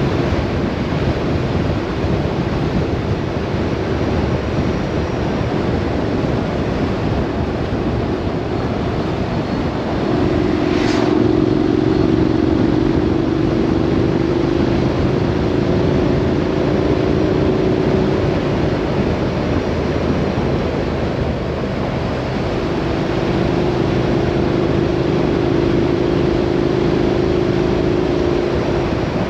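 A road vehicle on the move: steady road and wind noise under an engine hum that grows stronger at times, with a brief whoosh about eleven seconds in.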